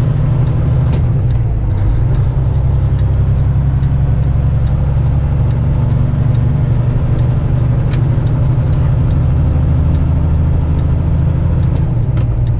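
Cab interior of a heavy-haul semi truck cruising on the highway: a steady low drone of the diesel engine and road noise, with a faint, evenly spaced ticking.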